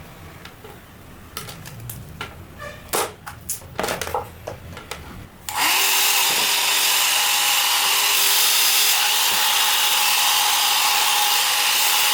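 A few plastic clicks and handling knocks. About halfway through, a Nova NHP 8100 1200 W hair dryer switches on suddenly and runs steadily and loudly: a rush of blown air with a steady motor whine.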